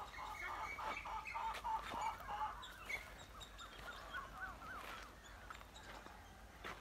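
Birds calling: a quick run of short chirping notes that grows fainter about halfway through.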